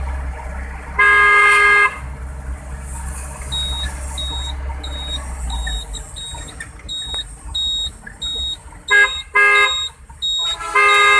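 A vehicle horn honks: one long blast about a second in, two short blasts about nine seconds in, and another near the end, over a low engine rumble. From a few seconds in, a high electronic beep repeats about twice a second.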